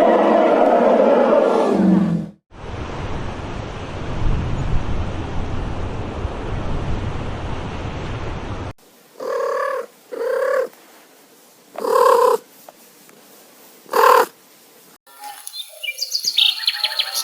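A string of separate animal sound clips. First the tail of a pitched call, then a steady low rumble like a cat purring for about six seconds, then four short calls spaced a second or two apart, and bird chirping near the end.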